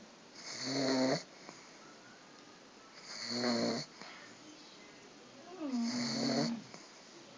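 A sleeping flat-faced dog snoring: three snores, each about a second long, coming about every two and a half seconds.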